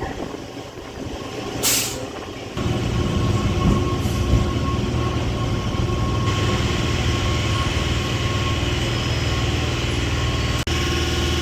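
MEMU electric train running. A short hiss comes about two seconds in, then a steady mechanical hum with a low drone and a thin high whine sets in suddenly and holds.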